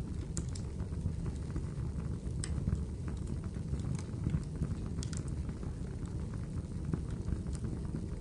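Wood fire crackling in a fireplace: a steady low rush of burning with scattered sharp pops and snaps.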